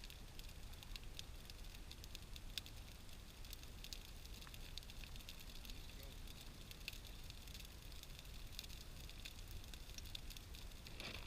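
Wood fire crackling, with many small irregular pops and snaps over a faint low rumble.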